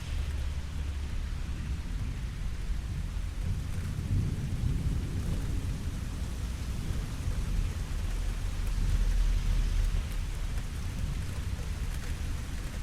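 Steady rain falling, with low rolling thunder that swells about four seconds in and again around nine to ten seconds.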